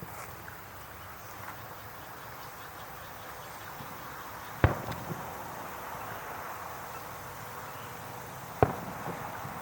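Fireworks shells bursting: two sharp bangs, one about halfway through and one near the end, each followed by a brief echo and a few small pops, over a steady background chirring.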